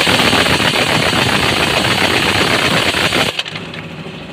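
Pneumatic impact wrench running on a truck's bolts: a loud, fast, even rattle that stops abruptly about three seconds in.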